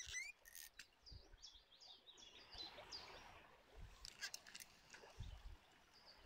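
Near silence outdoors: faint bird chirps in quick short notes in the first half, with a few soft clicks.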